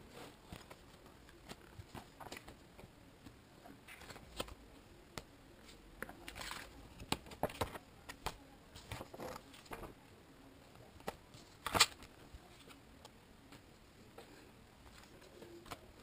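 Hands handling packaging and a small object: irregular light clicks and short rustles, busiest in the middle, with one sharp click near twelve seconds.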